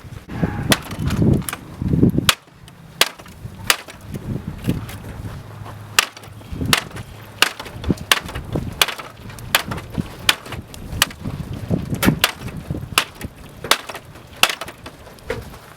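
Footsteps crunching at a steady walking pace, about one sharp step every 0.7 seconds, with a low rumble over the first two seconds.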